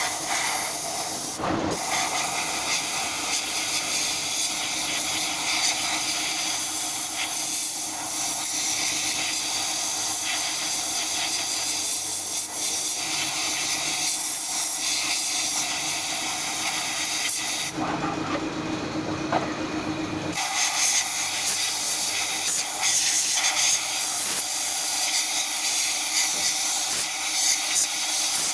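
Long, steady pressurised spray hissing, as in spray-cleaning an engine's intake parts. The hiss stops for about two seconds about two-thirds of the way through, then resumes.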